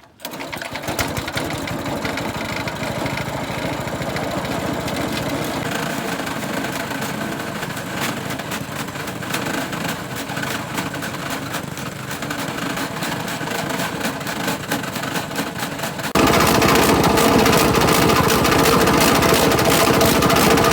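A small engine running steadily with a fast, even firing pulse; about three-quarters of the way through it abruptly becomes louder.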